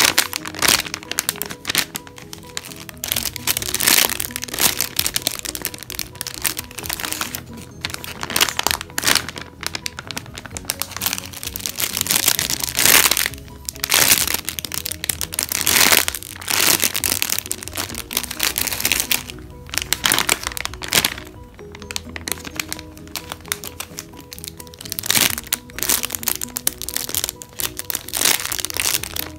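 Plastic packaging crinkling and crackling irregularly as squishy toys in their bags are handled, over background music.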